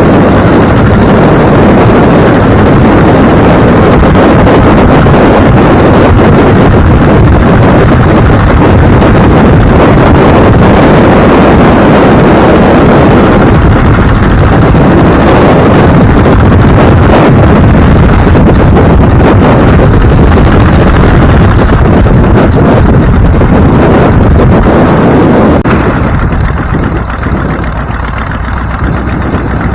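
Loud wind buffeting the microphone over the road and engine noise of a moving vehicle, easing somewhat near the end as it slows.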